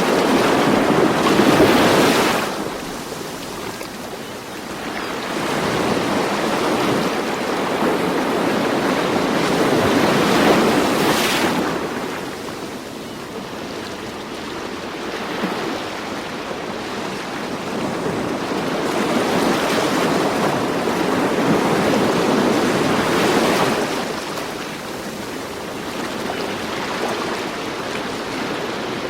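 Ocean surf: waves breaking and washing in, the rush swelling and fading roughly every ten seconds, with a brief hiss as a wave breaks about two seconds in and again near the eleven-second mark.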